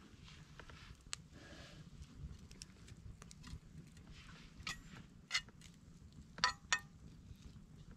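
Light metallic clinks and small clicks, like camp cookware or utensils being handled, with two louder ringing clinks close together about six and a half seconds in.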